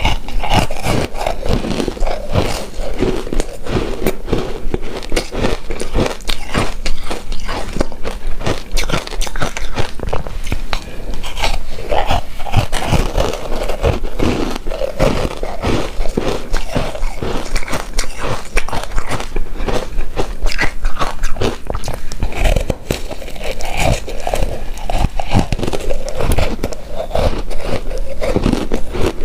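Close-miked chewing and biting of a soft, chewy coconut-coated rice cake: a dense, steady run of mouth clicks and smacks.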